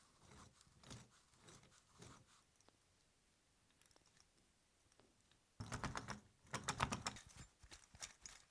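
Small parts of a V12 engine model kit clicking and rattling as they are handled and fitted together: a few soft taps, then about five and a half seconds in, a quick run of sharp clicks lasting a couple of seconds, thinning to scattered clicks near the end.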